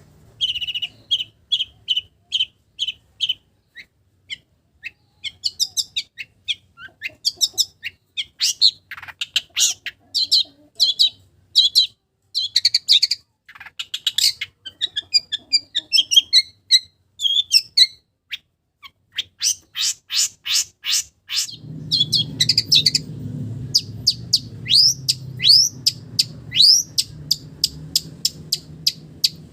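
Long-tailed shrike (cendet) singing a fast, varied song of short repeated chirps and rising whistled sweeps, with mimicked calls of other small birds in it. A low steady rumble joins in about two-thirds of the way through.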